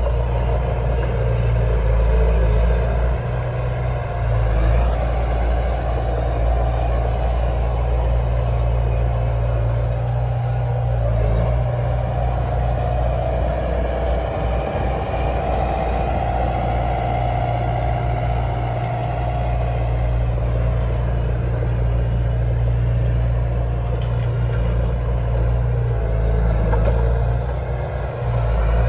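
Heavy diesel engine of earthmoving machinery running steadily: a deep, continuous drone whose note shifts a little about halfway through.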